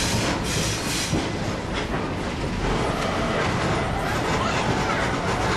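Excursion train running along the track, heard from aboard: a steady rumble of wheels on rail, with some clicks from the rail joints in the first couple of seconds.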